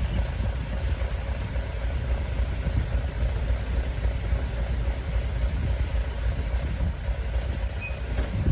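Heavy earthmoving machine's diesel engine running steadily, a deep, even drone without any change in pace.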